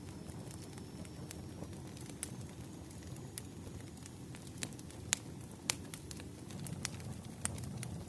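Wood fire crackling: a steady low rumble of burning logs with sharp pops and snaps scattered throughout, the two loudest a little after five seconds in.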